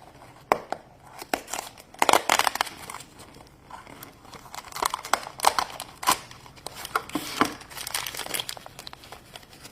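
Plastic packaging of a Littlest Pet Shop surprise toy being crinkled and torn open by hand, in irregular crackling handfuls with sharp clicks.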